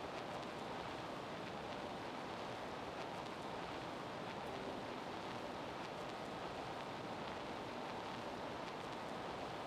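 Steady rushing noise with no distinct events, like wind or running water.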